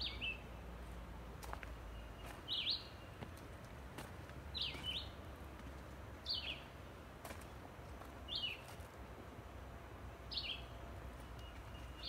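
A songbird in the woods repeating a short, sharply falling call about every two seconds.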